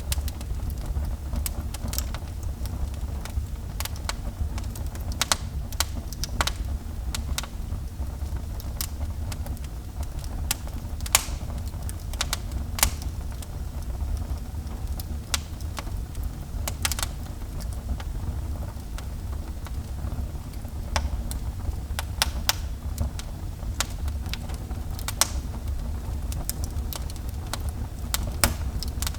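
Wood fire burning in a fireplace, with irregular crackles and pops over a steady low rumble. A few pops stand out, one about eleven seconds in and another about two seconds later.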